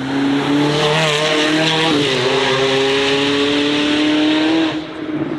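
A performance car's engine held high in the revs with tyres squealing as it powerslides round, the pitch dipping briefly about two seconds in. The noise falls away a little under five seconds in.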